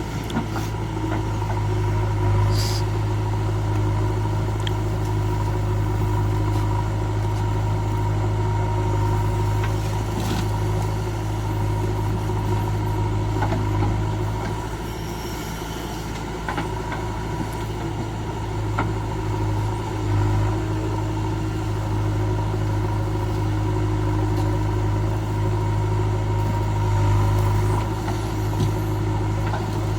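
Diesel engine of heavy farm machinery running steadily at a constant speed, with a deep, even hum and a few brief knocks.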